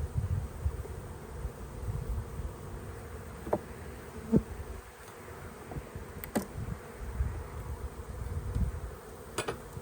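Honey bees buzzing in a steady hum around an opened beehive. A few short, sharp knocks are heard, the clearest just past the middle and another near the end.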